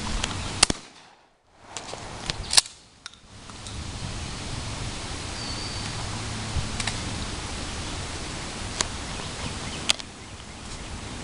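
Two shotgun shots at skeet targets about two seconds apart, sharp cracks, each followed by a brief drop in level. Later come a few fainter sharp cracks over a steady outdoor hiss.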